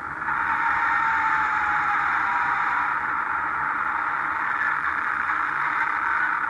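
Amtrak Piedmont diesel passenger train passing, its running noise played back through a camcorder's small built-in speaker and re-recorded, so it comes through as a steady, thin rushing noise with no deep or high sound.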